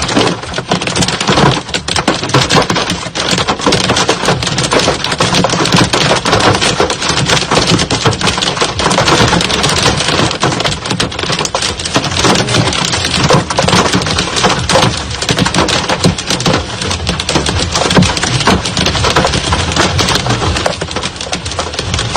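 Hailstones pelting down hard, a dense, continuous clatter of countless small impacts.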